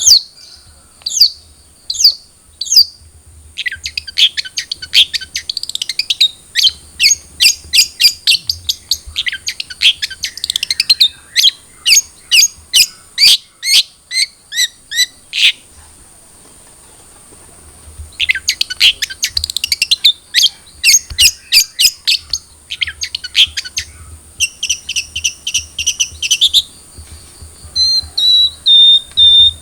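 Long-tailed shrike (cendet) singing a rapid chattering song: long runs of sharp, high notes several a second, with a pause about halfway through, then buzzier held notes and a thin held whistle near the end. A steady high-pitched tone runs underneath.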